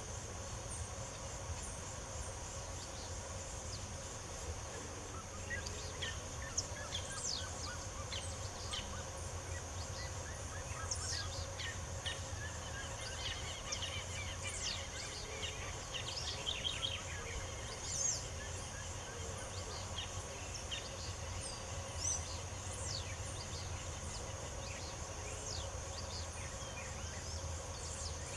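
Several songbirds chirping and singing in short, scattered calls and trills, busiest in the middle, over a steady high-pitched insect drone.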